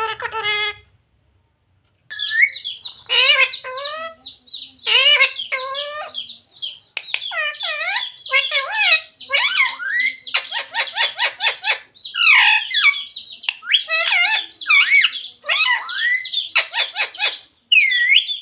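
Pet ringneck parrot squawking and chattering in rapid, sweeping calls, after a short pause about a second in.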